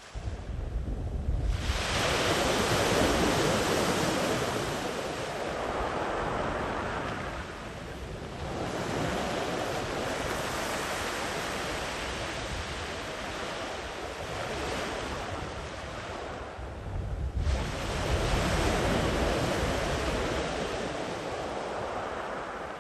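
Sea waves breaking on the shore and washing up the beach: three surges, about a second and a half in, near the middle and about two-thirds of the way through, each rising suddenly and then slowly fading as the water runs out.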